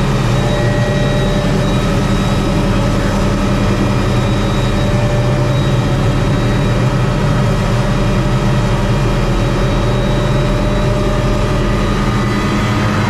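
Helicopter engine and rotor running steadily at a constant pitch, heard from on board.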